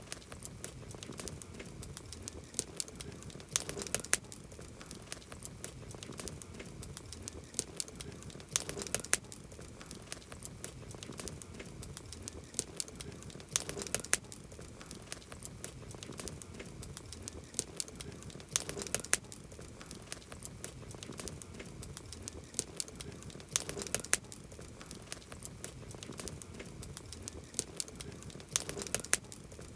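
Wood campfire crackling, with frequent sharp pops and snaps over a soft low hiss of burning; the same run of pops recurs about every five seconds.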